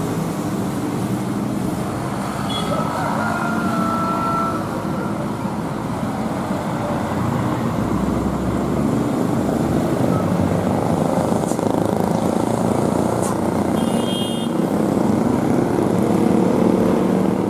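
Vehicle engines running steadily amid road traffic noise, the level rising slightly.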